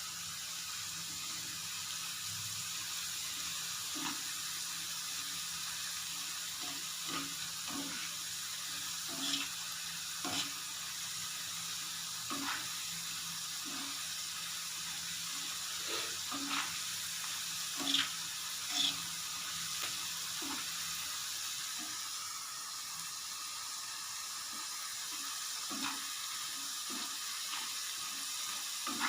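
Hot oil sizzling steadily as garadu (yam) pieces deep-fry, with scattered crackles and pops every second or two.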